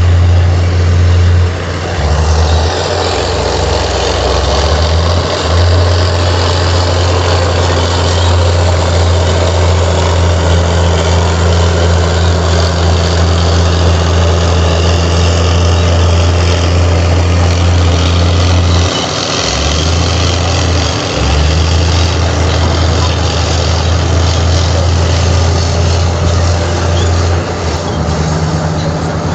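Komatsu D58 bulldozer's diesel engine running under load with a steady low drone. The engine note dips and shifts briefly a few times, around 2 seconds in, again about two-thirds of the way through, and near the end, as the load or throttle changes.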